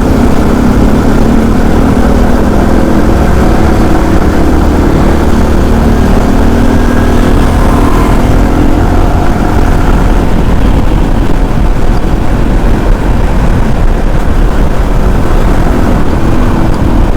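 Motorcycle riding at steady speed: the engine runs under constant loud wind rush on the microphone.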